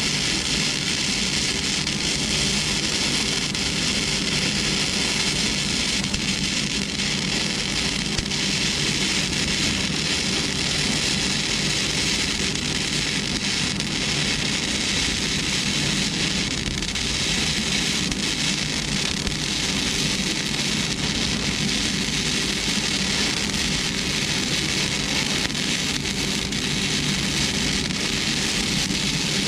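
Flux-core arc welding: a steady crackling, sizzling hiss from the arc and the wire feed, unbroken the whole time.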